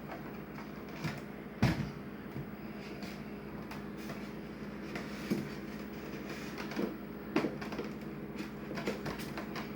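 Scattered knocks and taps of objects being set down and handled on a plastic cooler lid while shapes are traced around them, the loudest knock a little under two seconds in, over a steady low hum.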